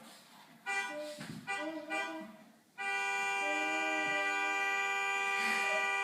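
Recorded car horn: a few short honks, then one long, steady honk lasting about three seconds that stops abruptly.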